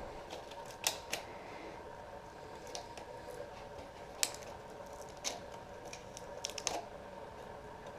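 Scattered light clicks and taps of engine parts and tools being handled, over a steady background hum.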